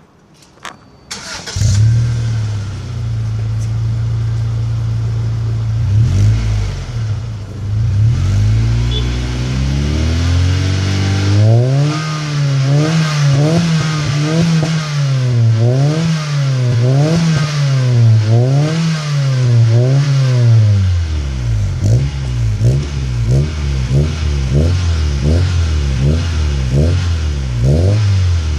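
2001 Acura Integra LS's B18B1 1.8-litre four-cylinder heard through a Yonaka catback exhaust: it starts up about a second and a half in and settles to a steady idle. Midway it is revved in a run of about eight quick blips, then drops back to idle with a few light blips near the end.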